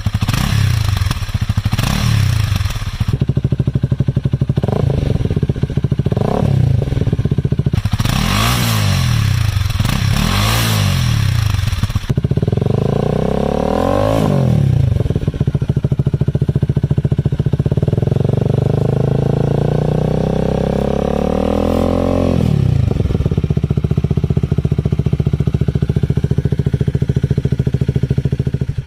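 Honda Rebel engine breathing through an aftermarket slip-on muffler, idling and being revved by the throttle. There are several short blips in the first ten seconds and a longer rev about twelve seconds in. Then the revs are held up for about five seconds before dropping back to idle.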